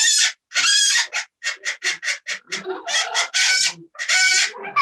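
A parrot calling loudly: longer high calls broken by a fast run of short notes, about six a second, in the middle.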